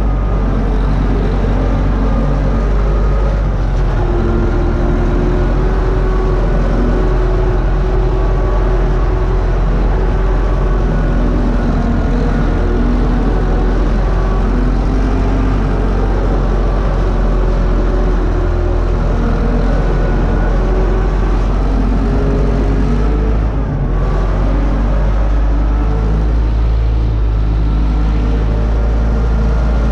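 Universal U650 tractor's four-cylinder diesel engine running steadily under load while pulling a disc harrow, with a brief dip in level about three-quarters of the way through.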